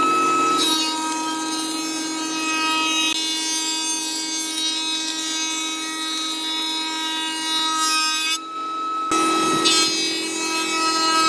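An electric power tool running with a steady whine while it cuts or sands wood, with a rasping rub over the whine. The sound changes abruptly a few times and breaks off briefly about eight and a half seconds in.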